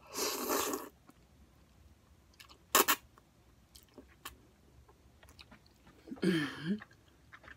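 Close-miked eating sounds: a short noisy rush at the start, one sharp crunch about three seconds in, then soft, scattered chewing clicks. A brief hummed voice sound comes near the end.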